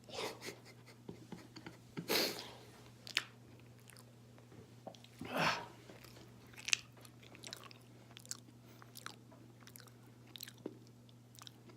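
A person chewing and swallowing oatmeal close to the microphone: soft, wet mouth clicks and smacks scattered throughout, with two louder half-second rustles about two and five and a half seconds in, over a steady low hum.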